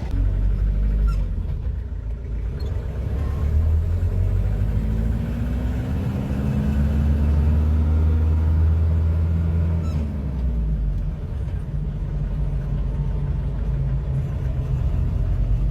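Car engine running as the car is driven with its seized differential's gears removed. The engine note rises and falls once near the middle.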